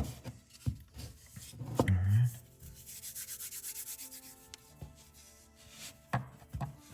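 DAP 33 glazing putty being pressed and rubbed into the crevices of an old wooden window sash. There are a few light knocks, then a run of quick rubbing strokes at about five a second, and a couple more knocks near the end.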